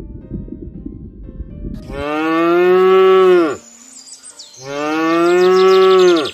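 A low, rough rumble for about two seconds, then a cow mooing twice. Each moo is a long call of about a second and a half that drops in pitch as it ends.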